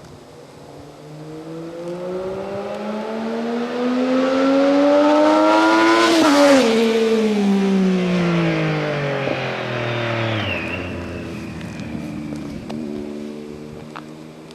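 Triumph Daytona 675's inline-three engine with a Bodis Q1 exhaust passing by under acceleration: its note climbs in pitch and loudness to a peak about six seconds in, then falls in pitch as the bike moves away. The note drops again about ten seconds in as it fades.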